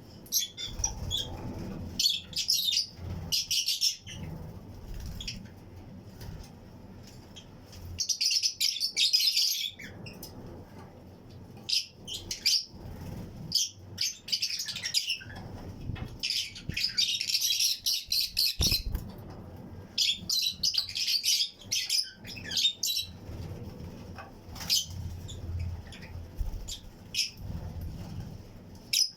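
Colony of Fischer's and lutino lovebirds chirping in an aviary flight cage: clusters of shrill, high chirps from several birds at once, coming in waves every few seconds with quieter gaps between.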